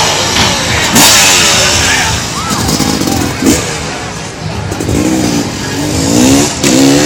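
Motorbike engines revving hard, their pitch climbing and falling again and again, with a couple of short sharp knocks in between.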